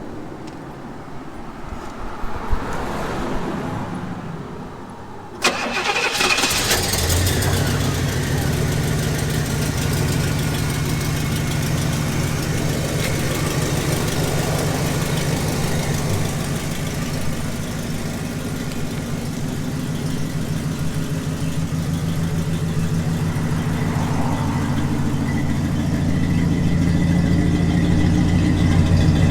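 Cold start of a 1966 Pontiac Catalina 2+2's 421 V8: the engine fires with a sudden burst about five seconds in and settles into a steady idle that grows slowly louder toward the end.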